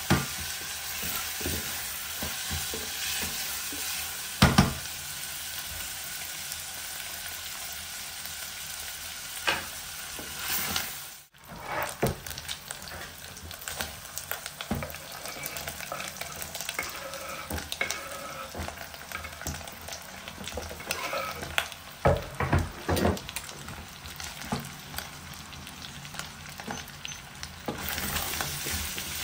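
Diced onion and meat sizzling as they fry in a stainless steel pot, stirred with a wooden spoon that knocks against the pot now and then. Near the end diced potatoes and carrots are in the pot and being stirred.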